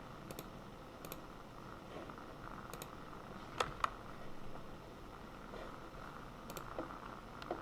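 Scattered single clicks of a computer mouse and keyboard at a desk, a few seconds apart, with a sharper pair of clicks in quick succession about three and a half seconds in.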